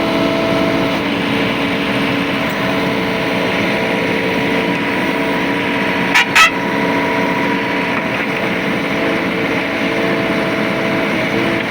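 Tractor engine running steadily, with two short loud bursts about six seconds in.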